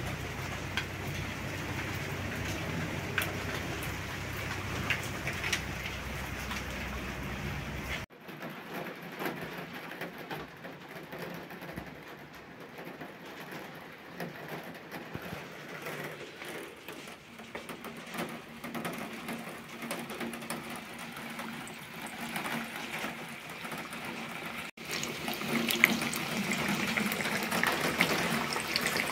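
Sopaipilla dough frying in hot oil: a steady sizzling hiss. The sound changes abruptly about eight seconds in and again near the end.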